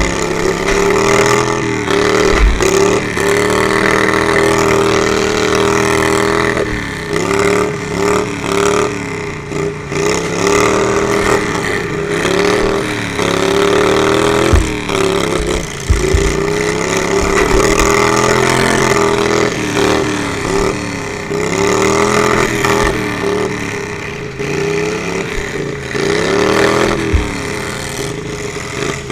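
Riding lawnmower engines revving again and again, the pitch rising and falling every second or two, with a few dull low thumps.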